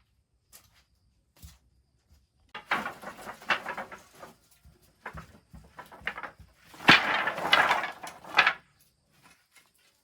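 Hand woodworking on timber: pieces of wood scraped and rubbed in several short bouts, with sharp wooden knocks between them.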